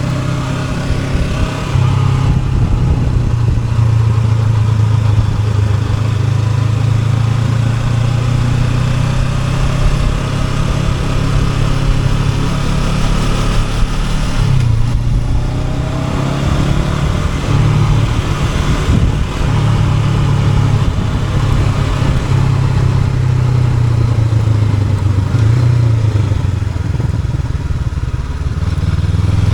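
Honda NX500's parallel-twin engine running as the motorcycle is ridden, its note rising and falling with the throttle. There is a brief dip and change in pitch about halfway through, as at a gear change.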